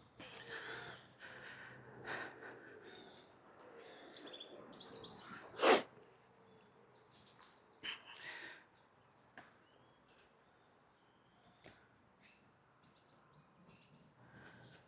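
Faint outdoor birdsong, with short high chirps and calls from small birds scattered throughout, over scattered rustles and knocks. One loud, sharp noise comes about six seconds in.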